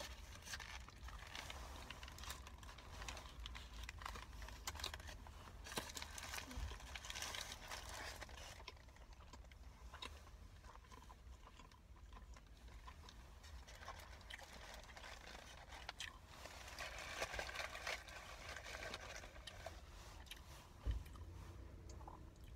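Chewing a roast beef sandwich, with its paper sandwich wrapper crinkling as it is handled. There is one sharp knock near the end.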